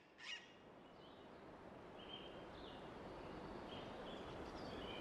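Outdoor background noise slowly fading in, with short, high bird chirps about once a second, the loudest just after the start.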